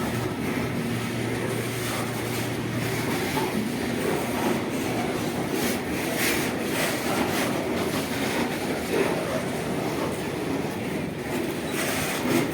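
Goods train rolling past on the station track: a steady rumble of wagon wheels on the rails with scattered faint clicks.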